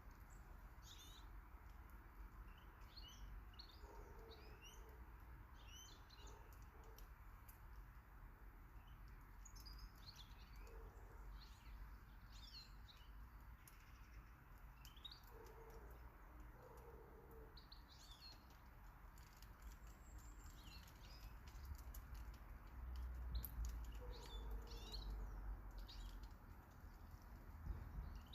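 Faint, scattered chirps and short calls of small garden birds, over a low rumble that grows louder near the end.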